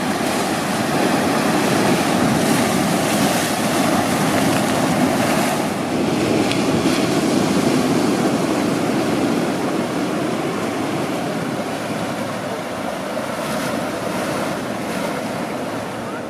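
Ocean surf washing in continuously, a steady rush that swells slightly and eases, with some wind buffeting the microphone.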